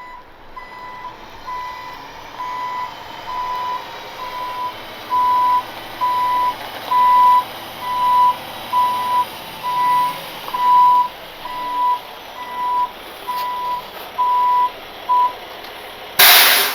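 Rollback tow truck's reverse alarm beeping steadily, about 1.7 beeps a second at one high pitch, over the running engine, as the truck backs up; the beeping stops about fifteen seconds in. A short loud hiss of air follows near the end.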